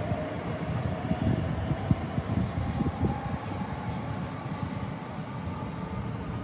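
A train running past on the line, a continuous rumble of wheels on track with irregular knocks and a faint whine.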